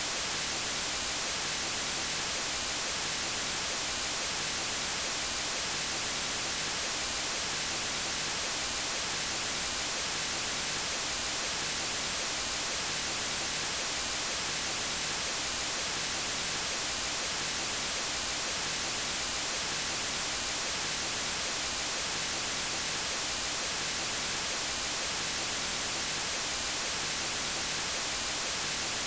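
Steady white noise: an even, unchanging hiss across all pitches, brightest in the highs.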